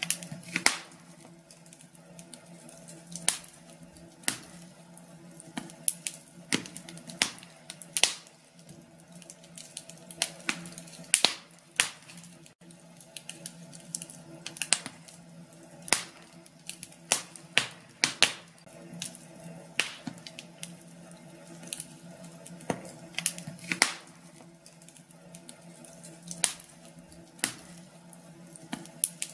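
Wood fire burning in a fireplace, crackling with irregular sharp pops and snaps, several a second, over a steady low hum.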